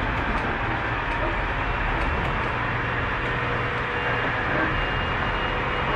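Tobu 30000 series electric multiple unit running at speed, heard from inside the passenger car: a steady rumble of wheels on rail, with a faint steady whine.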